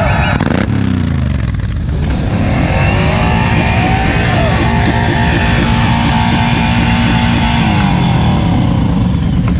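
Motorcycle engine revving through a loud exhaust. The revs fall away just after the start, then are held high and steady for several seconds before dropping back near the end.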